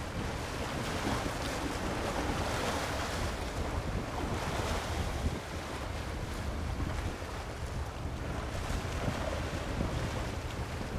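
Wind buffeting the microphone over the steady wash of sea waves, swelling a little in the first half.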